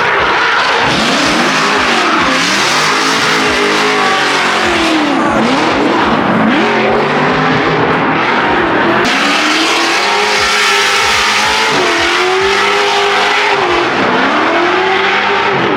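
Loud drift cars at full throttle, engine pitch swinging up and down over and over as they slide through the turn, over continuous tire squeal.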